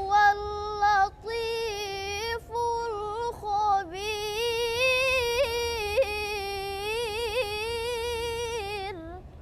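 A young girl's solo voice reciting the Quran in melodic tilawah style, with held notes and ornamented turns. There are three short phrases, then one long phrase from about four seconds in that stops shortly before the end.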